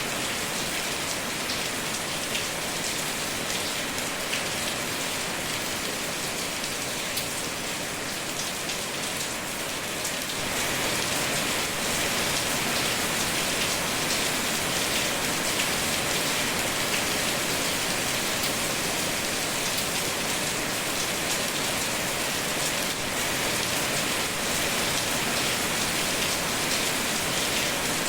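Steady rain falling, an even hiss that gets a little louder about ten seconds in.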